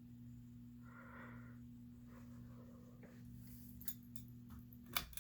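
Aloha Breeze ceiling fan running on low speed, its motor giving a faint steady hum. A few sharp clicks near the end.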